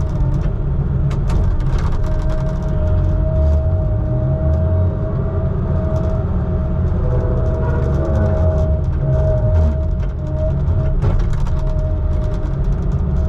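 Heavy equipment engine running steadily: a deep rumble under a constant whine, with scattered clicks and rattles.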